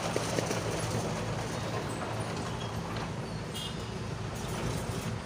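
Heavy vehicle's diesel engine running steadily, with its exhaust giving a low, even hum.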